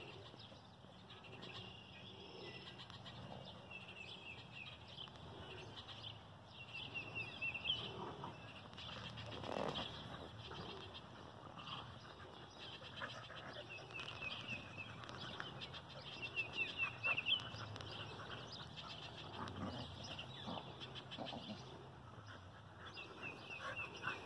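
Birds singing in short repeated chirping phrases every few seconds, over the faint sounds of dogs scuffling and playing on grass.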